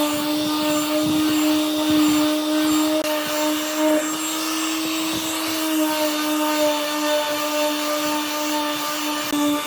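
An electric power tool running steadily, a constant motor whine over the hiss of the tool working the wood.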